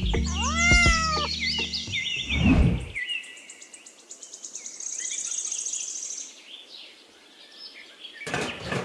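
Birds chirping, with a fast high trill about halfway through. In the first three seconds a low, steady animal sound and a call that rises and falls sit under the chirps, and a short sharp noise comes near the end.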